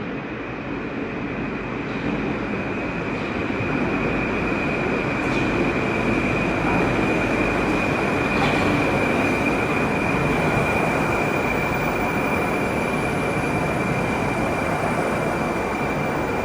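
Moscow Metro train running, heard from inside the car: a dense rumble that grows louder over the first four seconds and then holds, with a steady high whine throughout and a few faint clicks.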